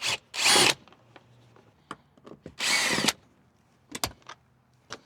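Cordless drill/driver running in two short bursts, about two seconds apart, to back out Phillips screws holding a vehicle interior trim panel. Light clicks of the tool and screws are heard between the bursts.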